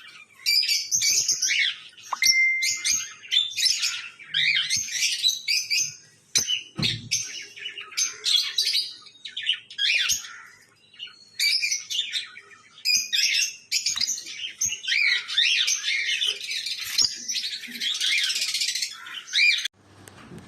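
Lovebirds chirping: dense, high-pitched twittering in quick bursts with short pauses, including a brief steady whistle about two seconds in, stopping just before the end.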